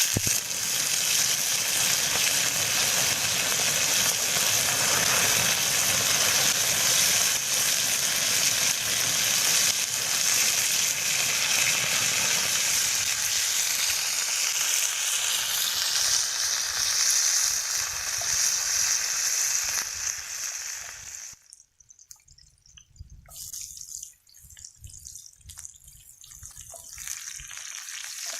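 Food sizzling in a hot pan: a loud, dense sizzle that starts abruptly, thins about halfway through and cuts off sharply about 21 seconds in, followed by fainter, patchy sizzling.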